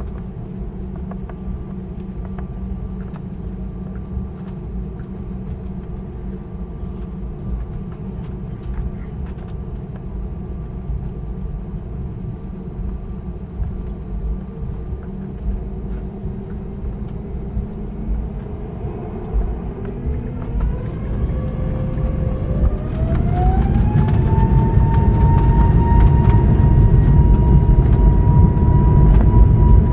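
Airbus A321neo's Pratt & Whitney PW1100G geared turbofans heard from inside the cabin, first running at low power with a steady rumble and faint whine. About two-thirds of the way through they spool up to takeoff thrust: a rising whine that settles into a high steady tone as the rumble grows louder.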